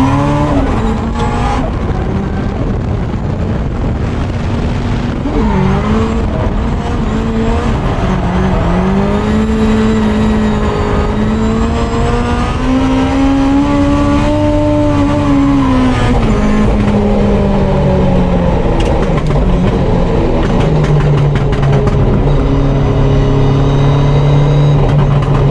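Drift car engine under load, its pitch rising and falling as the revs change, then holding steady revs near the end.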